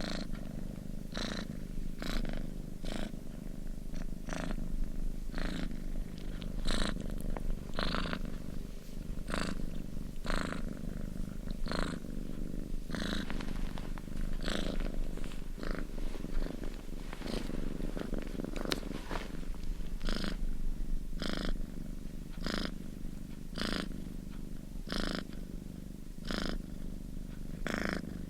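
Domestic cat purring steadily up close: a continuous low rumble, with a soft breathy hiss that comes and goes about once a second.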